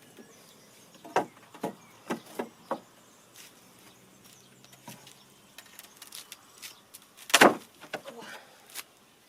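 A series of sharp knocks and clicks, five in quick succession starting about a second in, then fainter clicks and a louder clatter about seven seconds in.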